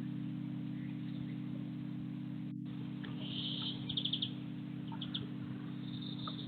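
Small garden birds chirping: a few short, high calls and a quick run of about five notes about four seconds in, over a steady low hum.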